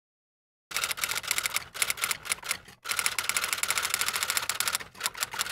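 Typewriter key-clacking sound effect: a fast run of key strikes that starts about a second in, with a short break near the middle.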